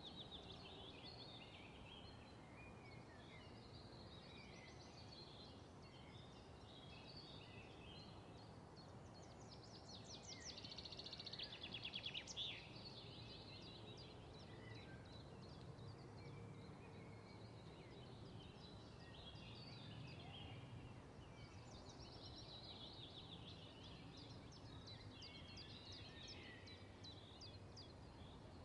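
Faint birdsong: scattered chirps and fast trills from small birds, busiest about ten seconds in and again near the end, over a low steady background hum.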